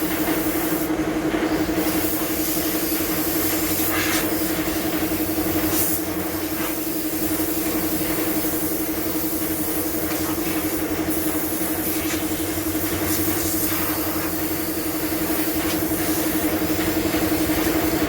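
Pressure washer running steadily, its motor giving a constant hum under the hiss of the water spray, dipping slightly about six seconds in.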